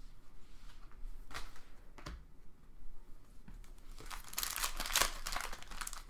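A few light taps as trading cards are handled, then about two-thirds of the way in a foil trading-card pack wrapper starts crinkling and tearing as it is opened.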